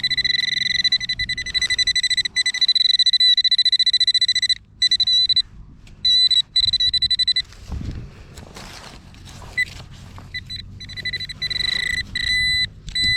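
Metal detecting pinpointer sounding a steady high-pitched tone that pulses rapidly while it is held on a coin target in the dug hole. The tone cuts out briefly a few times, stops about seven seconds in, and comes back near the end.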